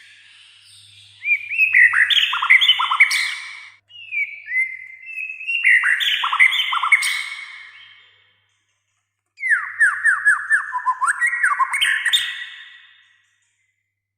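White-rumped shama (murai batu) singing three loud phrases of varied whistles and fast clipped notes, separated by short pauses. The last phrase opens with a quick run of falling notes.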